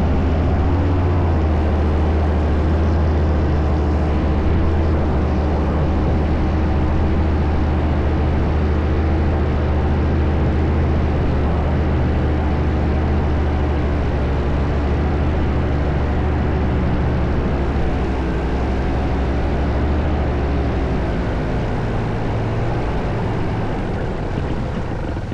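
Paramotor engine and propeller running steadily at high power, the pitch wavering a little and the sound easing off near the end.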